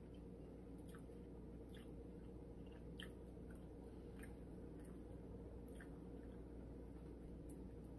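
Faint chewing of a teriyaki chicken sub sandwich, with scattered soft clicks over a low steady hum.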